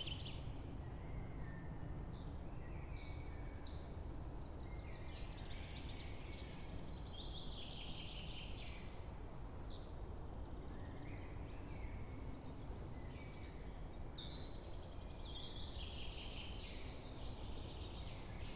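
Songbirds singing in a forest: repeated trilled and chirping phrases come in several bouts, over a steady low background rumble.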